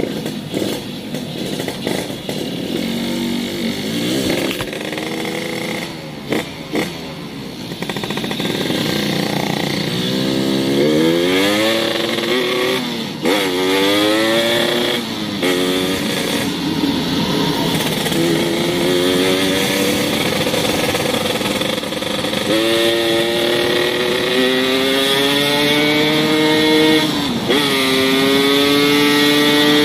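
Yamaha YT115 motorcycle fitted with a homemade racing exhaust built from a used RX-King muffler, its engine note rising steeply and dropping again several times, then holding a steadier, higher pitch near the end.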